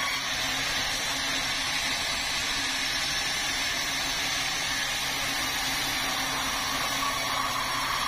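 Sawmill machinery running steadily, with an even hum and a steady whine.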